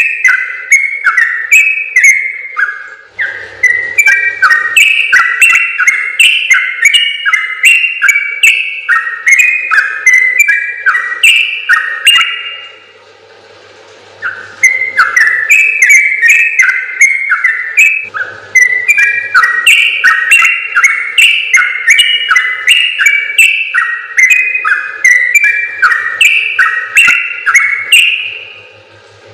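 Yellow-vented bulbul (trucukan) singing in long, fast runs of bubbly chirping notes, the 'ropel panjang' style prized by bird keepers. It breaks off for a couple of seconds about halfway through, then sings on until just before the end.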